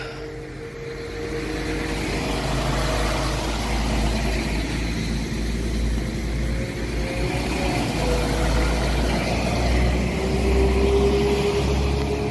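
Passenger train running: a steady low rumble with a faint whine that drifts slightly in pitch, growing a little louder over the first couple of seconds.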